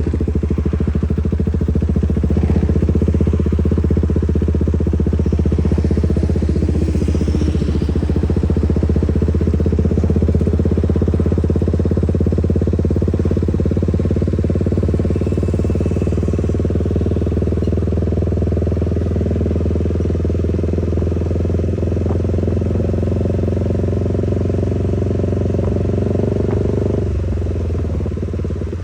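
Motorcycle engine, fitted with an aftermarket exhaust, running steadily at an even pitch with no revving, dipping briefly near the end.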